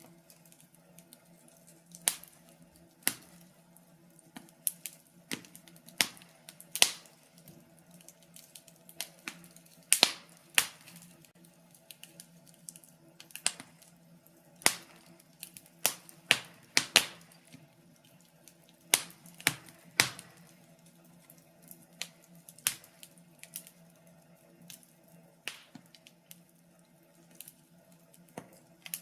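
Wood fire crackling: irregular sharp pops and snaps, one or two a second, over a faint steady low hum.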